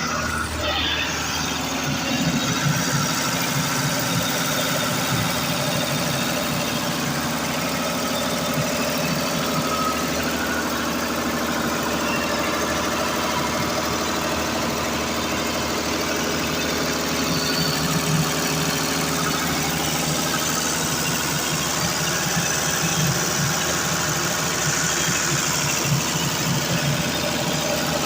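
Hino diesel engine running a dynamo generator at a steady, even speed.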